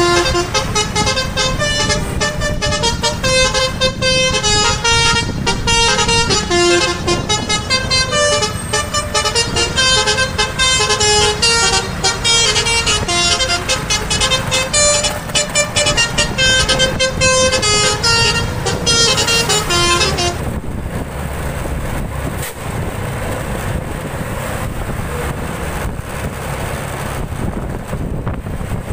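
A bus's multi-tone musical horn (an Indonesian 'telolet'-style horn) plays a quick tune of short notes over the steady rumble of the bus's engine and road noise. About twenty seconds in the horn stops, and only the engine and road rumble go on.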